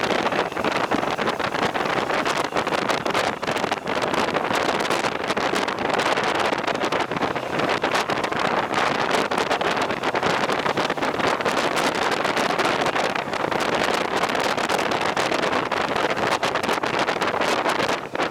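Wind buffeting the microphone of a moving two-wheeler, with steady rushing road and air noise and no clear engine note.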